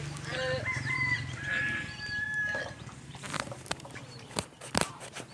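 Cat yowling in a long, drawn-out pitched call, the warning sound of a cat squaring up for a fight. It is followed by a few sharp clicks or knocks near the end.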